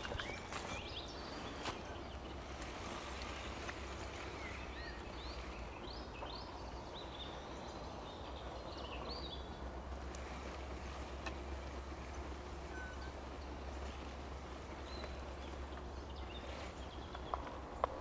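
Quiet woodland ambience with a bird singing a run of short, high, rising chirps a few seconds in, over a low steady rumble and a few faint clicks.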